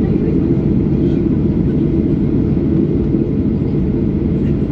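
Steady low rumble of a Boeing 737-800's cabin with its CFM56 jet engines running, even in level throughout.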